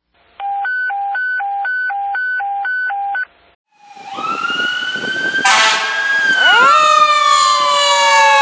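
Fire engine sirens. First an electronic siren alternates between a low and a high tone about twice a second, then cuts off about three seconds in. After a brief gap a Federal Q mechanical siren winds up into a rising whine, with an air horn blast about five and a half seconds in, and the tones then slide slowly lower as the truck goes by.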